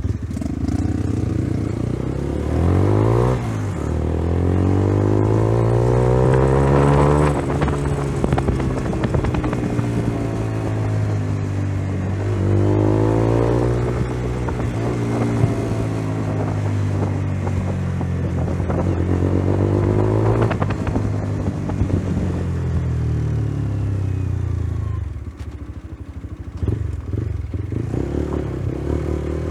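Single-cylinder 125 cc motorcycle engine under way, its pitch rising as it accelerates and dropping back several times.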